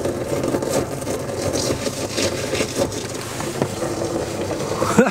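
Truck engine running steadily, with scattered clicks and knocks over the rumble.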